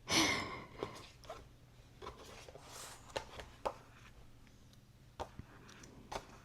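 Paper handling: a short swish at the start, like a book page being turned, followed by scattered light taps and clicks.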